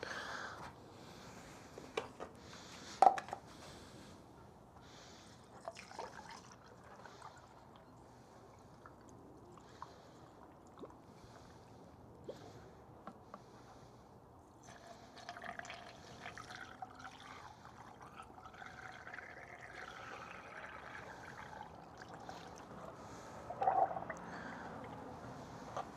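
Coolant being poured for several seconds past the middle, its pitch wavering as the liquid runs, with scattered clicks of handling before it and a louder knock near the end.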